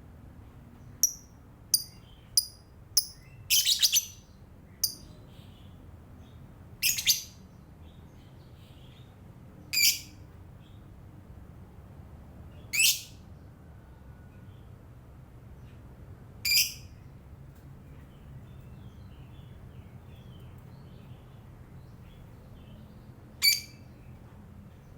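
Lovebird giving short, sharp, high-pitched chirps: a quick run of about eight in the first five seconds, then single calls every few seconds.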